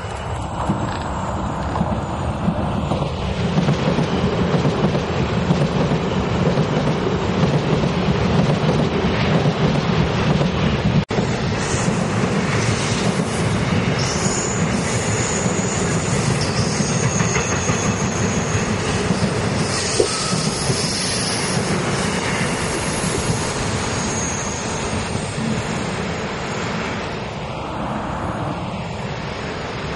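Taiwan Railway electric express trains passing close by at speed: first a TEMU1000 Taroko Express tilting train, then, after a sudden break about 11 seconds in, an EMU1200 set. Steady wheel-on-rail clatter and rumble throughout, with high wheel squeal on the curve from about 12 to 24 seconds.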